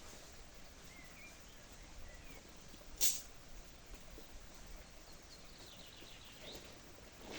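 Faint bird chirps over a quiet outdoor background, with one sharp click about three seconds in.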